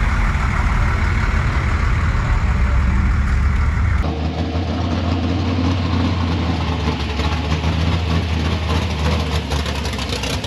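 Motor vehicle engine running steadily at a low idle. The sound changes abruptly about four seconds in to a different engine note with more fine rattle on top.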